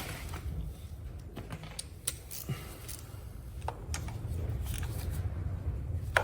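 Scattered light clicks and taps of hand tools and small metal parts being handled while motorcycle covers are refitted, over a low rumble.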